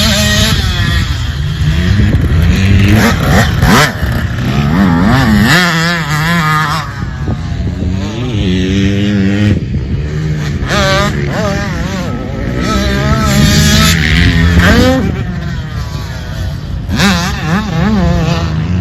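Dirt bike engine being ridden, revving up and easing off again and again so its pitch rises and falls repeatedly.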